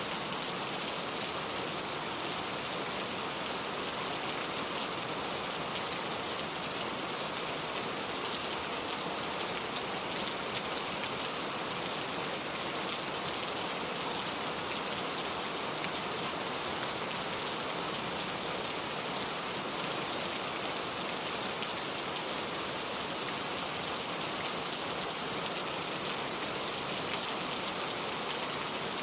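Heavy rain pouring steadily, a dense even hiss of many drops striking a surface.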